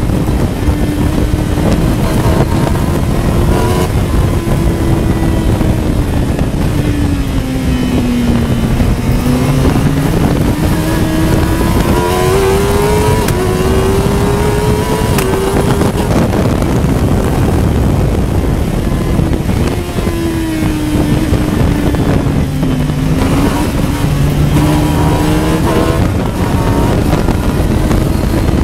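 Honda CBR1000RR inline-four motorcycle engine in a Westfield Megablade, held in third gear at high revs, its note rising and falling through the corners between about 9,000 and 11,500 rpm, with dips in pitch about a third of the way in and again near the end. Wind noise rushes over the open cockpit throughout.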